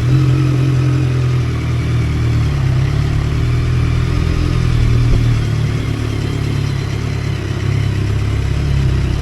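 Motorcycle engine running while riding at fairly steady revs, its pitch shifting slightly up and down, under a steady rush of wind and road noise.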